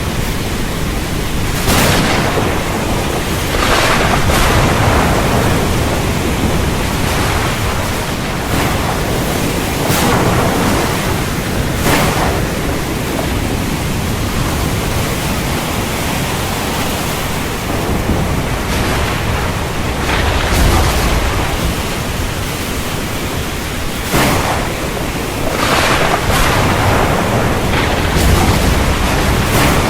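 Heavy rain falling steadily, with thunder rumbling in and swelling several times.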